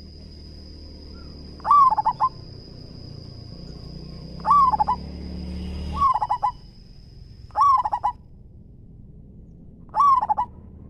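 Zebra dove (perkutut) cooing five times, a couple of seconds apart; each call is a short phrase of a dropping note followed by a few quick staccato coos.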